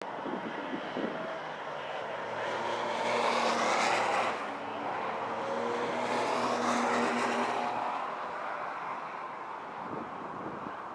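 Race car engines at speed on a circuit, the sound swelling twice to a peak about three seconds apart as cars pass, then fading away.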